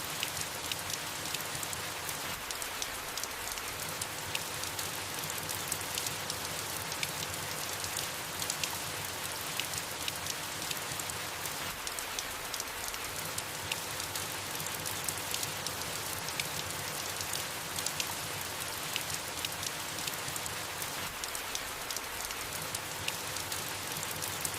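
Steady soft rain falling on leaves, a continuous hiss with many scattered individual drops ticking through it.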